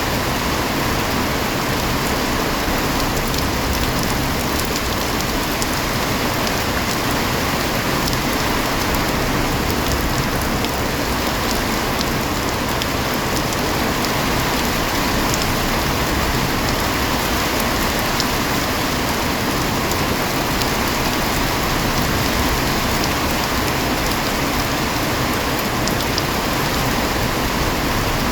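Heavy rain falling steadily, an even hiss with scattered drops ticking through it.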